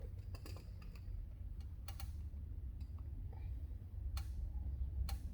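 Scattered light clicks and taps of small metal parts and hand tools being handled while a carburetor is fitted, a few sharp ticks spread over several seconds above a steady low rumble.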